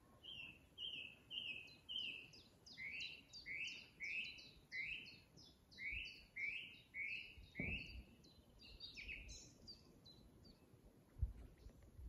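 A songbird singing a quickly repeated two-note phrase, about two a second, changing its phrase a few times before stopping about ten seconds in. A couple of low thumps near the end.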